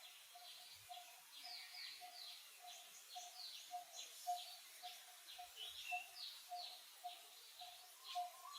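Birds chirping in short, falling calls, faint, with a low note repeating evenly about twice a second behind them.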